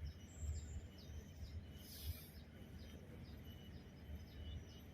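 Outdoor ambience with wind rumbling on the microphone and a run of short, high, falling chirps from birds or insects, about two to three a second. There is a brief hiss about two seconds in.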